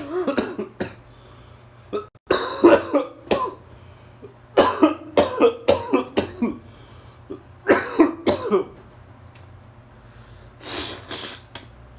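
A man coughing and clearing his throat in several loud fits, with a breathy rasp near the end, over a steady low hum.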